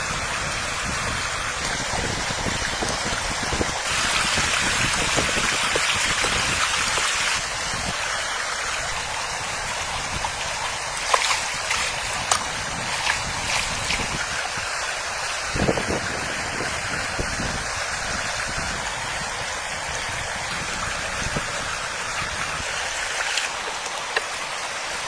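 Steady rush of running water, louder for a few seconds about four seconds in, with a few light clicks over it.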